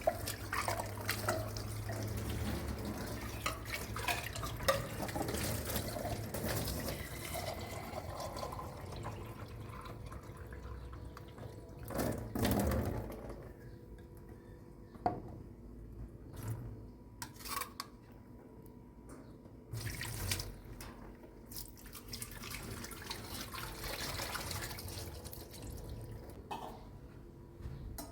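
Water running and splashing for the first several seconds, then quieter, with scattered knocks and clatters.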